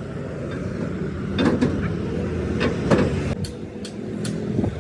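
A steady low motor drone with a series of sharp knocks, about seven in three seconds.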